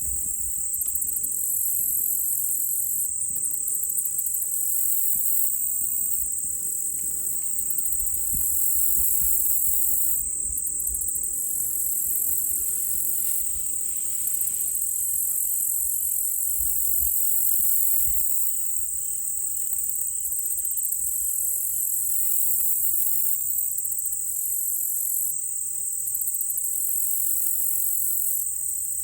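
Chorus of crickets and other insects: a steady high-pitched trill, with a second, pulsing layer above it that swells and fades every few seconds. A faint run of evenly spaced pips sounds partway through.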